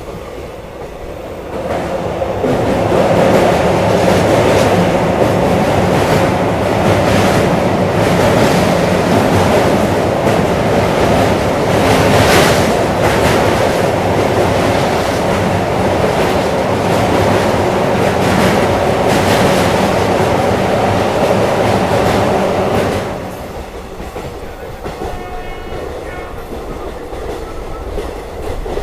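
Express passenger train running at speed, its wheels clattering over the rail joints. The noise swells about two seconds in and drops back to a lower rumble near the end, some twenty seconds later.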